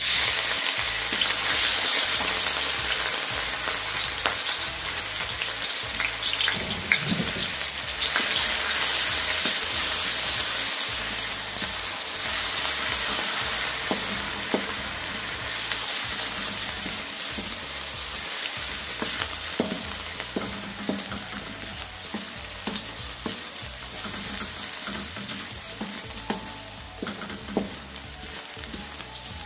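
Minced garlic and shallots sizzling in hot oil in a stainless steel wok. The sizzle starts suddenly as they go in and slowly dies down. A wooden spatula scrapes and taps against the wok as they are stirred.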